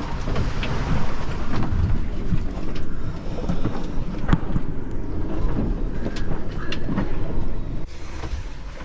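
Rival 34 sailing yacht labouring in heavy seas: a steady low rumble of wind and rushing water with frequent sharp knocks and rattles as the boat is thrown about.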